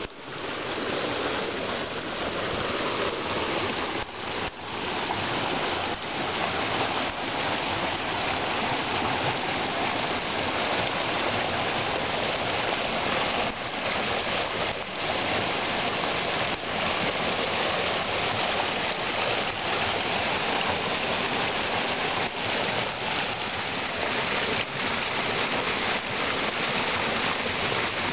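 Small waterfall of spring meltwater, water splashing and rushing steadily.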